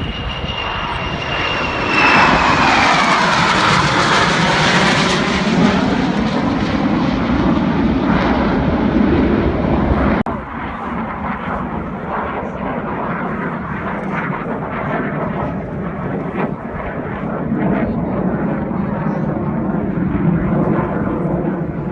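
Jet aircraft engine running loud, a high whine falling away at the start and a rushing roar swelling about two seconds in, with sweeping rises and falls in pitch; the roar drops abruptly about ten seconds in and carries on steadily.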